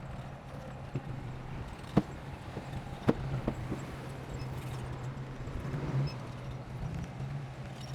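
Heavy earthmoving machine's engine running steadily, with several sharp metallic clanks, the loudest about two and three seconds in.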